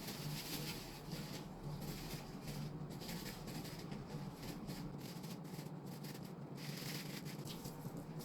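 Light rubbing and scraping noises from handling food and utensils, coming and going irregularly over a steady low hum.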